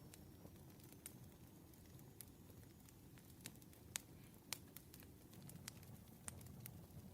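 Campfire burning faintly: irregular sharp crackles and pops of burning wood, two louder snaps a little past the middle, over a low steady rumble of the flames.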